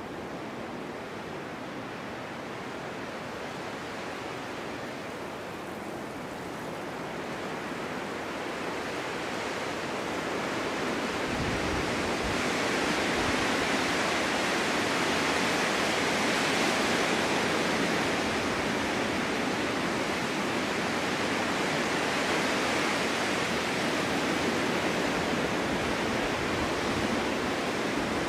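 Snowstorm wind blowing, a steady rushing that swells into a stronger gust about a third of the way in and stays strong.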